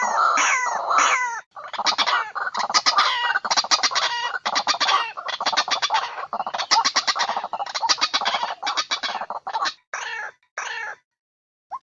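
White-breasted waterhen (ruak-ruak) calling in a loud, fast run of harsh, croaking notes, with a short break about a second and a half in. Near the end it thins to two short bursts and then a single short rising note. This is a bird-trapping lure call for waterhens.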